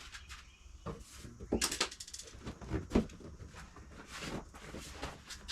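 Hands working upholstery covering over a boat seat piece: scattered rustles, clicks and knocks, the loudest knocks about one and a half and three seconds in.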